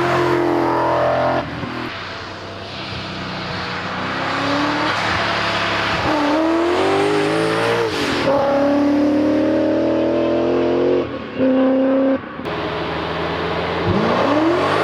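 BMW M5 E39's 4.9-litre S62 V8 accelerating hard through the gears. The pitch climbs in each gear and drops at several upshifts, over steady wind and road noise.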